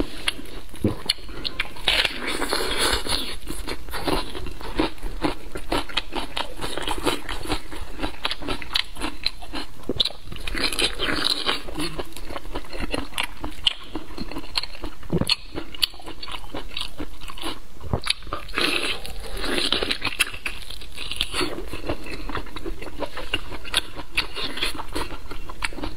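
Close-miked mouth sounds of a person biting and chewing braised pork intestines, with bites of raw red onion: a dense run of small wet clicks, with denser spells of crunching a few times.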